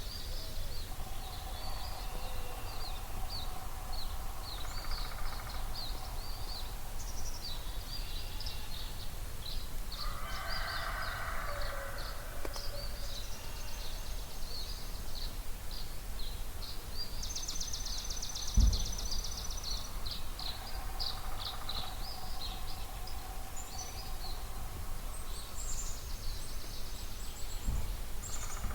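Dawn chorus: many birds chirping and singing at once, with a fast high trill about two-thirds of the way through and lower calls coming and going, over a steady low rumble. A single low thump comes about two-thirds in, and another near the end.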